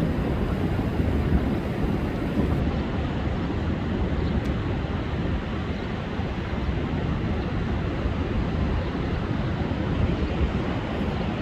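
Rough, storm-driven sea surf breaking without pause, with strong wind rumbling across the microphone.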